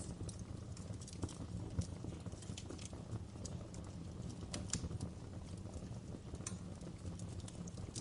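Wood log fire crackling in a fireplace: irregular sharp pops and snaps, several a second, over a low steady rumble of the flames.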